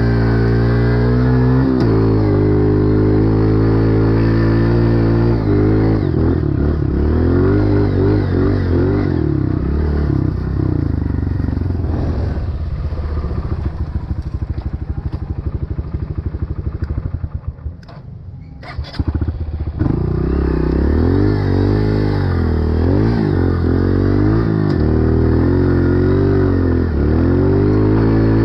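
Dirt bike engine revving up and down as it is ridden through soft sand. About halfway the revs fall to a slow chugging beat and the engine nearly dies away for a moment, then it picks up and revs again.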